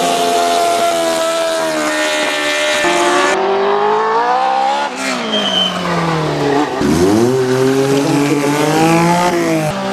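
Classic car engine being driven hard on a gymkhana course, its note climbing under throttle, dropping sharply about five seconds in, then climbing again from about seven seconds.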